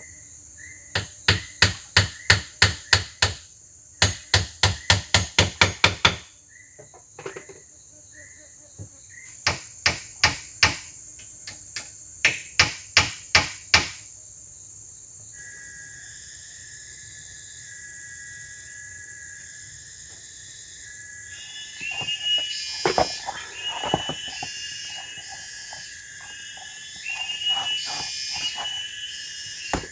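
Rapid runs of sharp blows on wood, about four or five a second, in four bursts over the first half, then looser clusters of knocks later on. Insects buzz steadily throughout in a high pitch.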